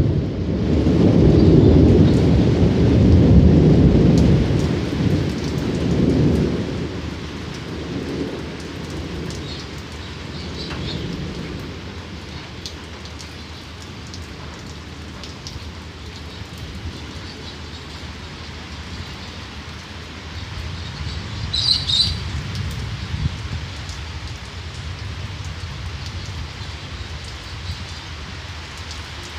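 Thunder rumbling and crackling loudly for the first six or seven seconds, swelling and fading away, over steady rain. About three-quarters of the way through, a short, sharper peak stands out over the rain.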